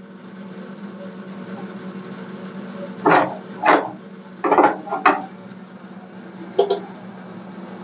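A steady hum with five short, sharp knocks of metalwork on the car body, the first about three seconds in and the last near the end.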